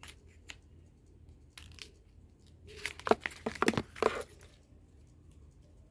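Paper scraps being handled and crumpled: scattered crinkles, then a burst of crackling for about a second and a half starting near three seconds in.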